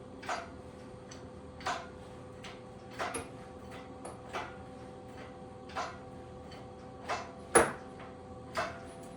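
A run of sharp clicks and knocks from work on the garden tractor's engine, spaced roughly a second and a half apart, with one louder knock near the end, over a faint steady hum.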